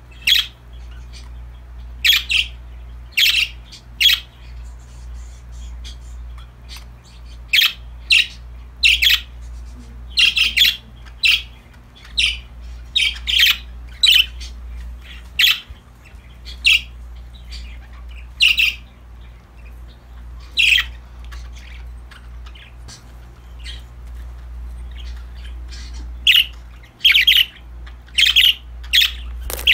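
Pet budgerigars giving short, sharp chirps and squawks at irregular intervals, thinning out for a few seconds about three quarters of the way through, over a steady low hum.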